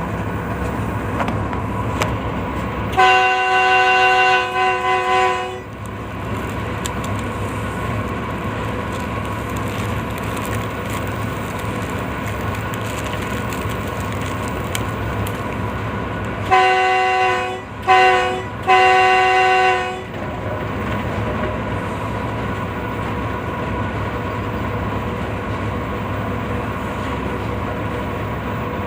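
Moving train running with a steady low rumble, its locomotive horn sounding a chord of several notes. One long blast comes about three seconds in, then near the middle a group of three: two short blasts and a longer one.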